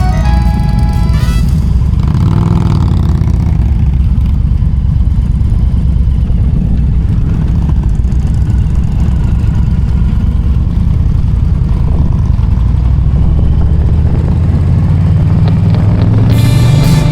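Motorcycle engine running steadily under way, its pitch rising a little near the end as it accelerates.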